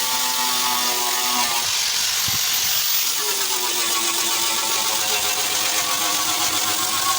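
A motor running continuously with a strong hiss, its pitch dropping about two seconds in and climbing back a second later before holding steady.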